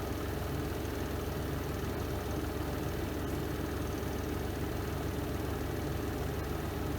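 The spin drum of a Renova semi-automatic twin-tub washing machine spinning, a steady, even hum with a fast fine flutter.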